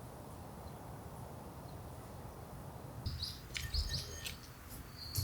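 Small birds chirping in short high notes over a steady low outdoor hiss. About three seconds in come a few sharp clicks and a low thump.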